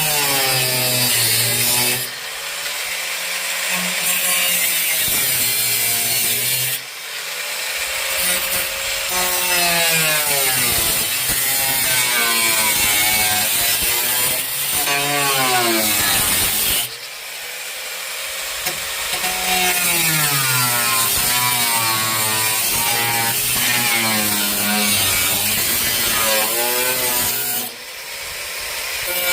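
Electric power tool cutting through the sheet-steel trunk floor of a 1972 Mustang. The motor's pitch rises and falls as it loads up in the cut, with brief dips a few times.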